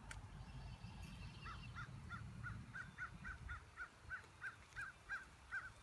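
A bird calling from the trees, a run of short, evenly repeated notes, about three or four a second, starting about a second and a half in, with a faint low rumble underneath.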